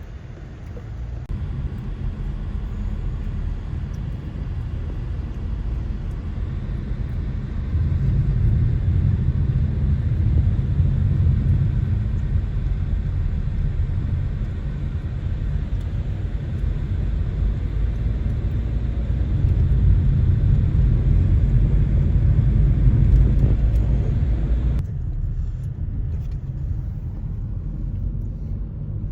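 A car on the move: a steady low rumble of road and engine noise that swells louder twice, with an abrupt change a few seconds before the end.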